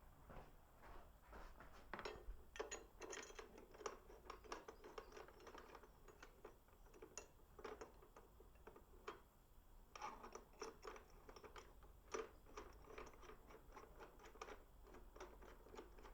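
Faint, irregular clicking and scratching, several small ticks a second, with no engine running.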